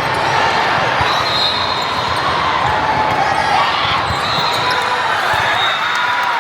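Busy indoor gym during volleyball play: balls thudding on the floor, short squeaks, and a crowd talking over one another.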